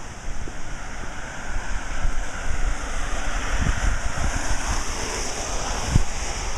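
A car passing on a wet road: its tyres hiss on the water, growing louder to a peak mid-way and then fading. Wind buffets the microphone with low rumbles throughout.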